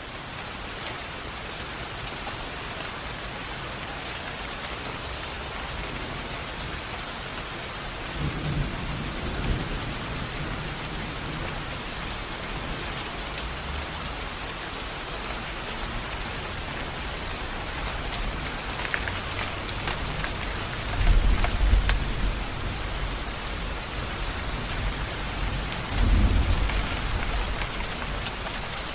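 Steady heavy rain falling, with low rolls of thunder swelling up about eight seconds in, around twenty-one seconds and again near the end.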